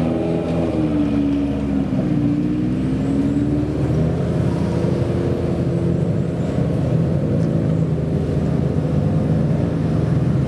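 Suzuki Jimny trial 4x4's engine running under changing throttle, its pitch rising and falling through the first few seconds, then holding steadier for the rest.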